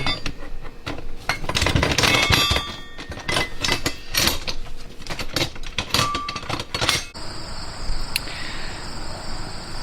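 Metal hardware of a chainsaw mill clinking and rattling as its clamps and bolts are fitted together by hand, in many quick sharp clicks. About seven seconds in this cuts off and gives way to a steady high chorus of crickets.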